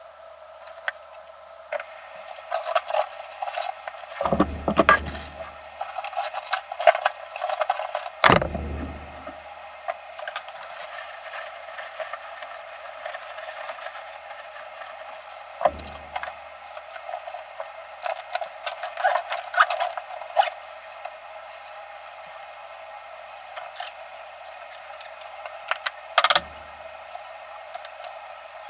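Running water splashing, with scattered small clicks and four dull thumps.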